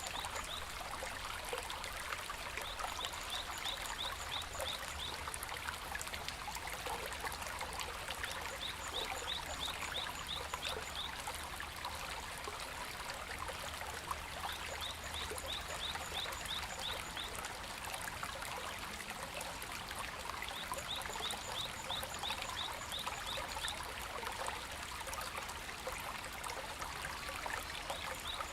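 A shallow stream babbling steadily over stones. A short run of rapid high chirps from an animal caller comes in about every six seconds over the water.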